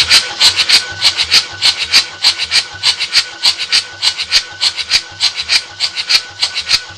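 Mercedes OM616 four-cylinder diesel being cranked over by its starter motor during a compression test on cylinder 2: a fast, even chugging of compression strokes over a steady starter whine. The engine does not fire.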